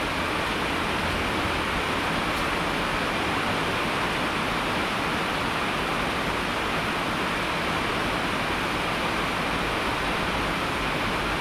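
Heavy rain falling, a steady even hiss with no breaks or changes.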